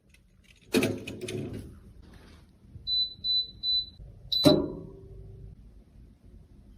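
A clatter of small hard objects being handled, then three short, evenly spaced, high-pitched electronic beeps, a fourth beep, and a sharp knock that rings briefly.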